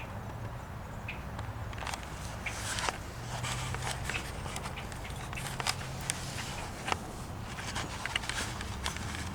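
A bird's irregular run of short, sharp clicks and chips, starting about two seconds in, over a steady low hum.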